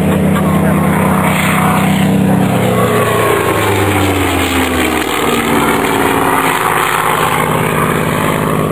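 Propeller aircraft's piston engines drone steadily, the pitch sliding down around the middle as the note shifts.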